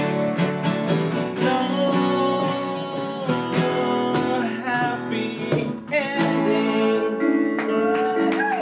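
Live band music: strummed acoustic guitars under a sung melody, the strumming thinning out over the last seconds into a held final chord.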